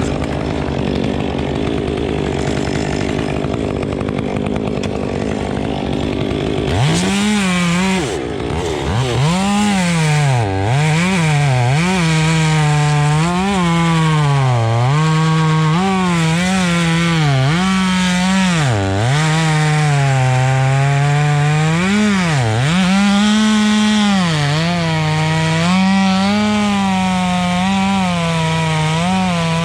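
Chainsaw running at full throttle through wood, its pitch dipping again and again as the chain bogs in the cut and recovering between dips. For the first few seconds before the cutting there is only a steady engine hum.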